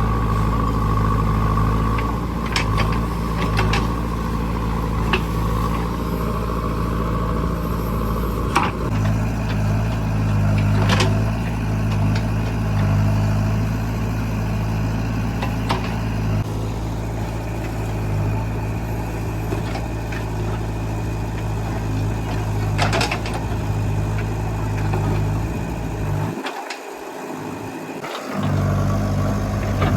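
Backhoe loader's diesel engine running steadily, with occasional sharp metallic knocks and clanks from the machine at work.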